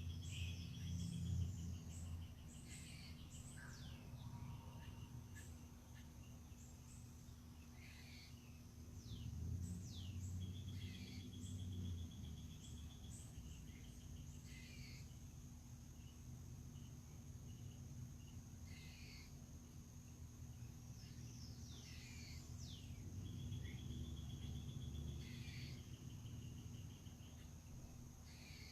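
Several wild birds calling and singing, with quick falling whistles and short trills repeated every several seconds, over a steady high-pitched insect drone. A low rumble swells and fades a few times underneath.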